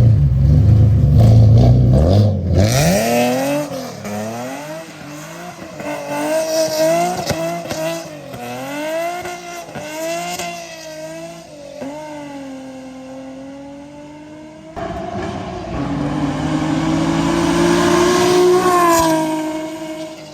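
Car engine revved hard and repeatedly, its pitch rising and falling about once a second after a loud low rumble in the first two seconds. Near the end it makes one longer climb that peaks and then drops away.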